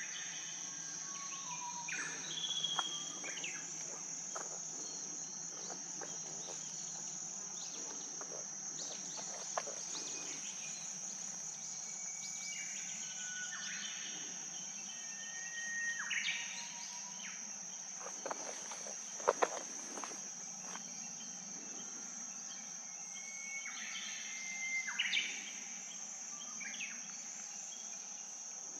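A steady high-pitched insect drone, with short bird calls now and then and a few sharp clicks about two-thirds of the way through.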